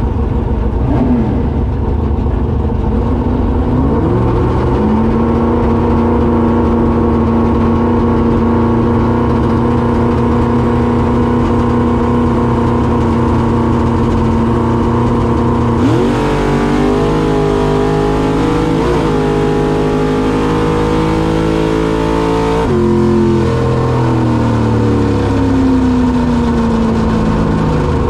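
Small-block Ford V8 in a 1983 Ford Ranger drag truck, heard from inside the cab. About four seconds in it comes up to a steady, higher rpm and holds there on the starting line. About sixteen seconds in it launches into a full-throttle eighth-mile pass, pitch climbing with a gear change about three seconds later. About seven seconds after launch it lifts off and the pitch falls as the truck slows.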